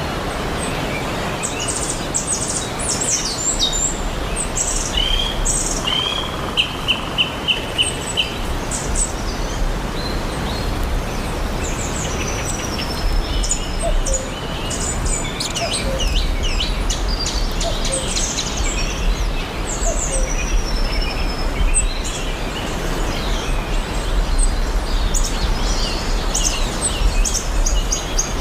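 Several small songbirds singing and chirping, with a quick run of repeated notes near the start, over a steady rushing background noise.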